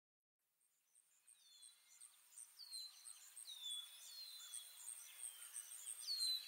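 Bird-like chirping fades in from silence during the first two seconds: repeated short calls slide downward about once a second over a fast, even high ticking of about three a second.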